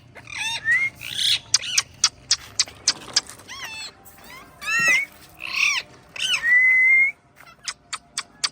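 Pet green parrot calling: a string of squawks and arching whistles, with one longer rising whistle about six seconds in, then a quick run of short sharp clicks near the end.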